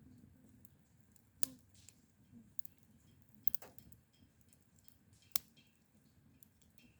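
A few sharp, isolated clicks over a faint low background: one about a second and a half in, a quick pair halfway through, and one more near the end.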